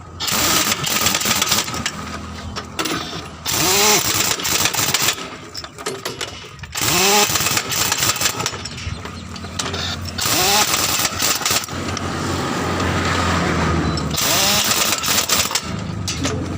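Shop air tool running in repeated bursts of a few seconds each, with a whine that sweeps up and down in pitch during each burst and sharp stops between them.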